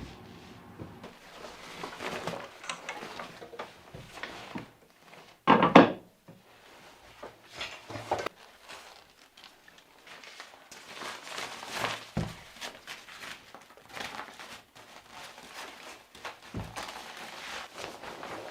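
Irregular knocks, thuds and rustling of objects being handled in a small room, with one loud thump about five and a half seconds in.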